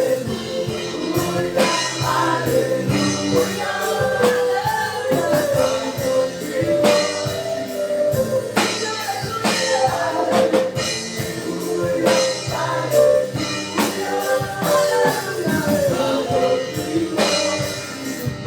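Live gospel praise music: voices singing over a drum kit keeping a steady beat.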